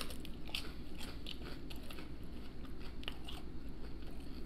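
Close-up chewing of crunchy battered fried seafood: a run of short, crisp crunches as the batter breaks between the teeth.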